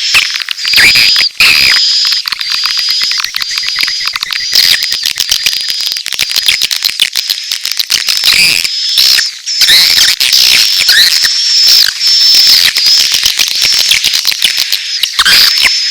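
Dense chorus of edible-nest swiftlets: rapid trains of clicks mixed with high, buzzy chirping calls held near one pitch, with a few quick downward sweeps. It is a mix of swiftlet courtship and chick calls, the kind of call track played to draw swiftlets into a nesting house.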